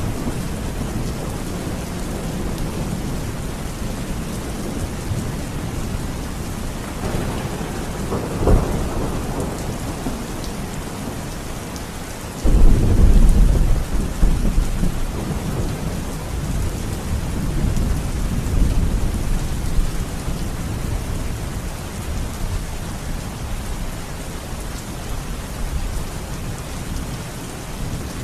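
Steady rain with rolling thunder: a short crack about eight seconds in, then a sudden heavy low rumble about twelve seconds in that fades over the next few seconds, with softer rumbles swelling later.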